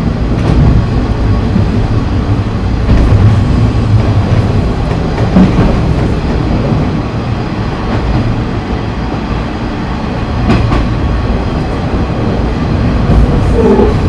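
KiHa 30 diesel railcar running along the line: a steady, loud rumble of engine and wheels, with a few clacks from the rail joints.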